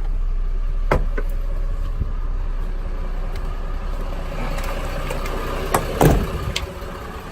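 Hyundai 5-ton cargo truck's 270-horsepower diesel engine idling steadily, heard from the cab, with a few short knocks and clicks, the loudest about six seconds in.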